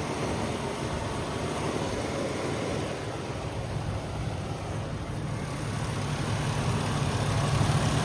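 A 2004 Ford Ranger's 4.0-litre V6 engine running steadily, getting louder over the last few seconds.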